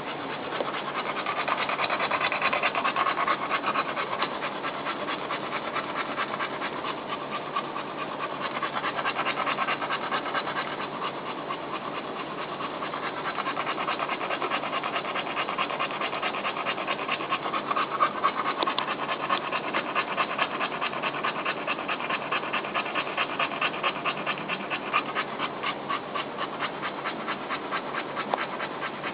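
A mother dog with a newborn litter panting rapidly and steadily.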